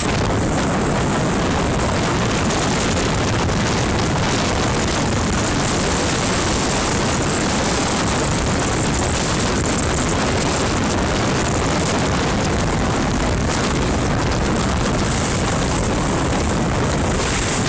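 Steady loud rushing roar of a car driving through floodwater: water spray hissing against the body and wheel wells over tyre and engine noise, coming in suddenly at the start.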